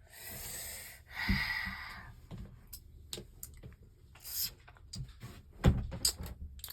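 Lego bricks being handled and sorted: two short rustling swishes, then scattered small plastic clicks and a louder knock a little before the end.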